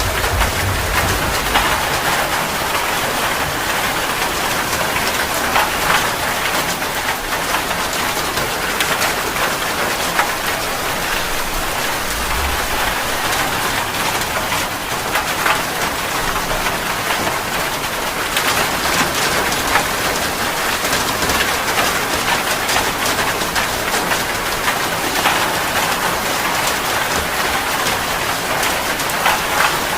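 Steady heavy rain with drops pattering on a surface. Brief low rumbles come through just after the start and again about twelve seconds in.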